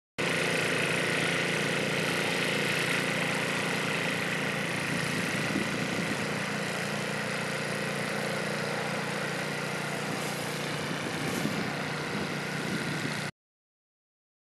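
A motor running steadily at an even speed, starting and cutting off abruptly.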